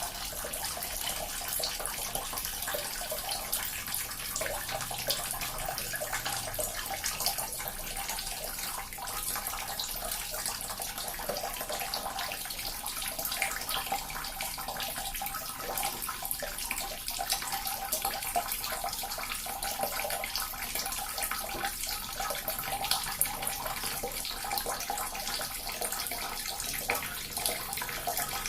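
Small water fountain running steadily: water trickling and splashing continuously with fine, bright spattering.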